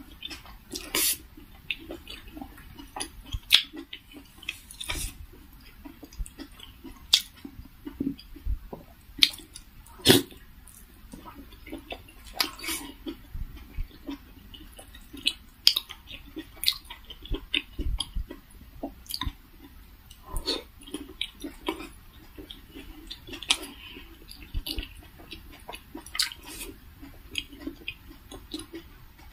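Chewing and wet mouth sounds of eating steamed vegetable momos (dumplings), with sharp smacks and clicks coming irregularly.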